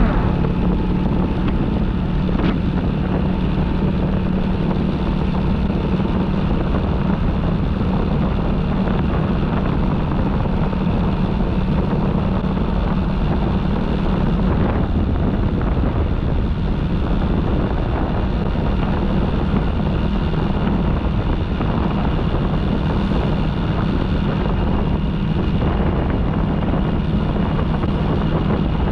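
Motorcycle running at a steady cruising speed, with wind noise on the microphone.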